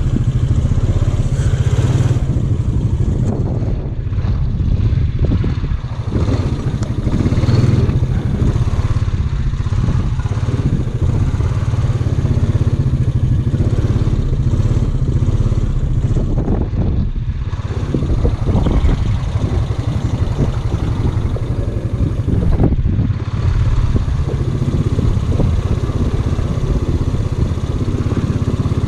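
ATV engine running steadily at a low, even pace, with some clatter.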